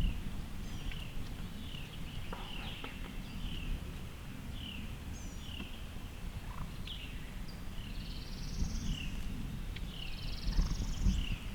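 Wild songbirds singing: a run of short, high chirp notes repeated every half second or so, with a higher rising buzzy trill twice near the end, over a low wind rumble.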